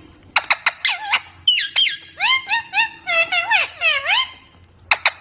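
Parrot calling: a quick string of short, squeaky chirps that swoop up and down in pitch, mixed with sharp clicks, then a brief pause near the end.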